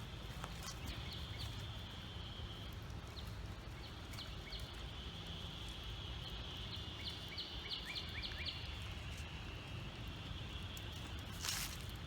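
Outdoor ambience: a steady high buzz with short bird chirps over a low rumble, and one brief sharp noise near the end.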